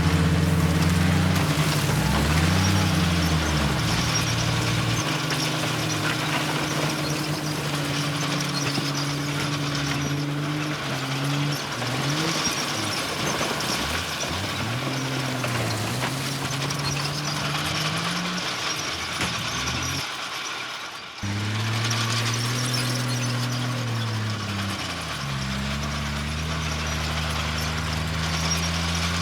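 A bulldozer's heavy diesel engine works under load, revving up and down over and over as it pushes dirt, with mechanical clatter and noise around it. The sound drops out for a moment about two-thirds of the way through, then comes back suddenly.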